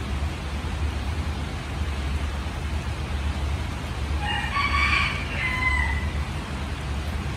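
Steady rain over a low rumble, with a rooster crowing once about four seconds in, the crow lasting under two seconds.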